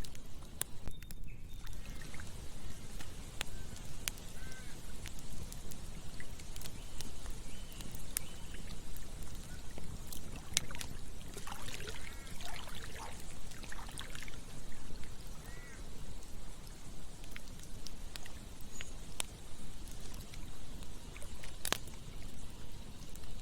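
Campfire burning with a steady low rumble and scattered sharp crackles and pops. About halfway through comes a brief flurry of animal calls, with a single short call earlier and another later.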